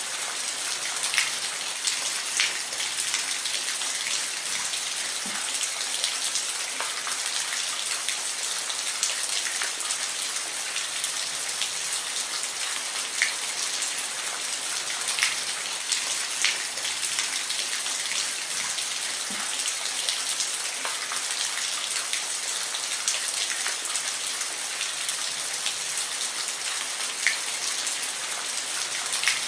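Steady rain falling as an even hiss, with single close drops ticking every second or two.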